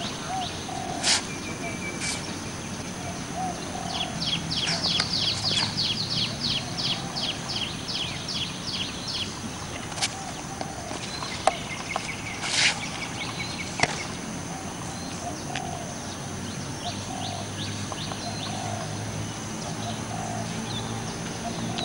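Birds chirping: a fast run of short repeated chirps, about four a second, for several seconds, then a shorter run later. Behind them are a steady high whine, a low hum, and a few sharp clicks near the middle.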